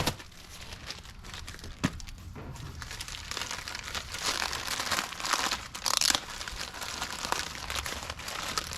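Packing material crinkling and rustling as a shipping box is unpacked, with a sharp click a little under two seconds in and a louder rustle about six seconds in.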